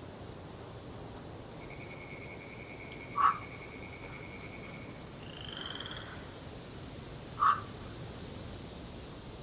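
Wild calls in a forest at dawn: a long, even trill lasting about three and a half seconds, then a shorter, higher trill. Two short, loud croaking calls come about four seconds apart, over a steady background hiss.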